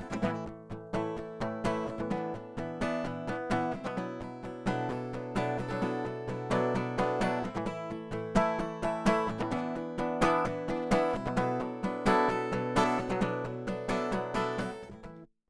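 Acoustic guitar played with a quick run of picked and strummed notes, cutting off suddenly near the end.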